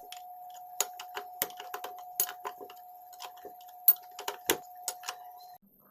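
Irregular light clicks and taps of tools and small engine parts being handled on a workbench during an engine rebuild, the sharpest just before four seconds in, over a steady hum that cuts off suddenly near the end.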